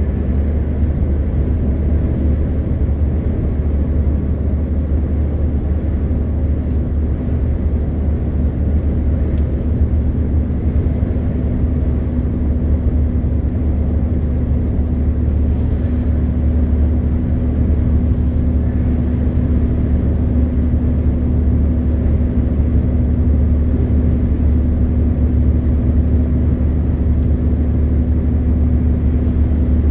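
MAN TGX 520 truck's straight-six diesel and its tyres giving a steady low drone at an even speed, with a constant hum over road noise.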